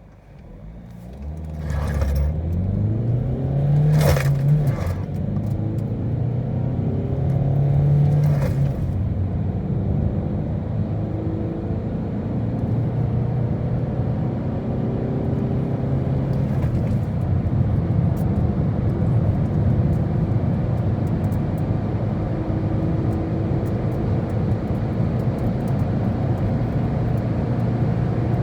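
Peugeot Partner 1.5 HDi four-cylinder turbodiesel accelerating hard through a manual gearbox. The engine note climbs, drops at gear changes about four and eight seconds in, then pulls more slowly and steadily in the higher gears.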